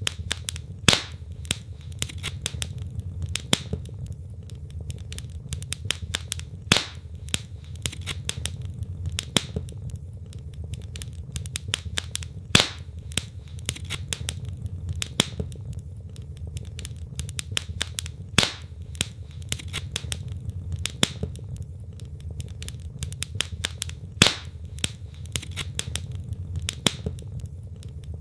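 Wood logs burning in a fireplace, crackling constantly with a louder sharp pop every few seconds over the steady low rumble of the flames.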